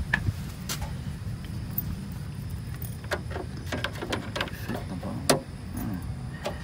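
Scattered clicks and light taps, with one sharp knock about five seconds in, over a steady low rumble.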